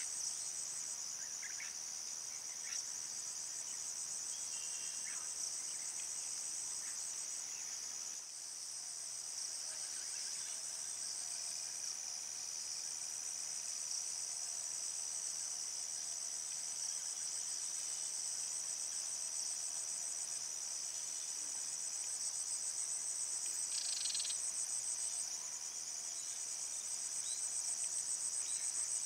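A chorus of insects, most likely crickets, trilling continuously in a dense, high-pitched, finely pulsing drone, with a few faint short chirps underneath.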